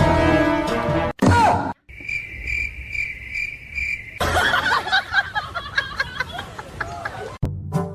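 Music that cuts off about a second in, then a short loud gliding sound, then a high chirp of one steady pitch repeated about five times at an even pace, followed by a busy mix of squeaks, clicks and giggle-like sounds that cuts off near the end.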